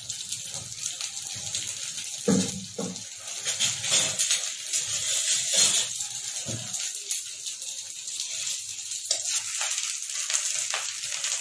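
Sooji idli pieces shallow-frying in oil in a kadai: a steady sizzle, with a few knocks and clinks as pieces are moved or set down in the pan.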